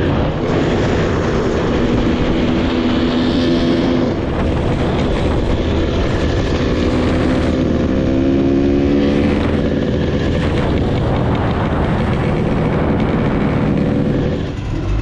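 Trail motorcycle engines running steadily, their pitch holding and shifting slightly, until the sound drops away near the end.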